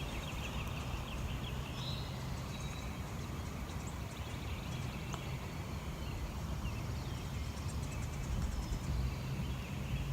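Steady outdoor background noise with a low rumble, with a faint high chirp about two seconds in.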